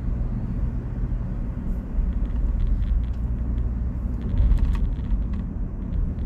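Steady low rumble with a few light clicks.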